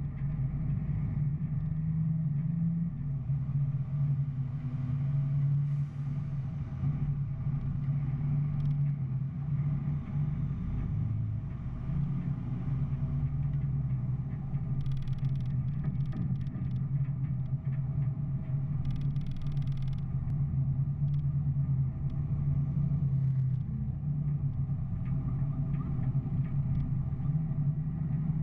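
A steady low engine drone, like a motor vehicle running, with two short hisses near the middle.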